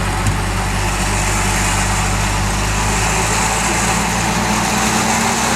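Off-road SUV engine running steady and loud under load while the vehicle is stuck in deep mud and being rocked backwards to get free.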